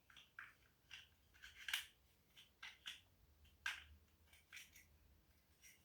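Faint, scattered clicks of plastic Lego bricks being handled and pressed together, about a dozen over a few seconds.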